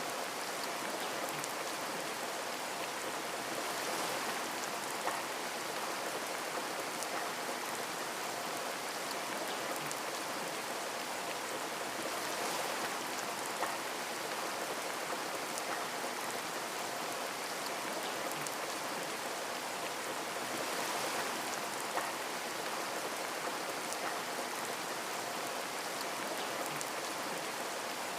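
Steady rain hissing, with scattered drops ticking and a couple of sharper drop clicks.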